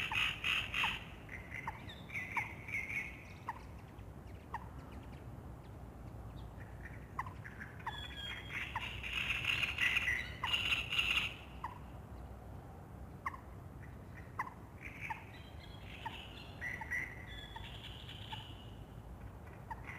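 Dawn birdsong from several birds: short single call notes repeat about once a second, while fuller song phrases come and go, busiest about eight to eleven seconds in. A faint steady low rumble lies underneath.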